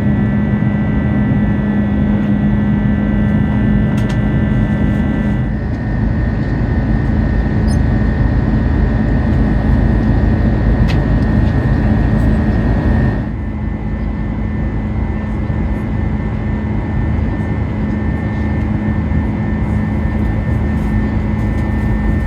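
Airbus A330-200 heard from inside the cabin: a steady rush of jet engine and airflow noise with a constant low hum and a high whine. The sound changes abruptly about five seconds in and again about thirteen seconds in.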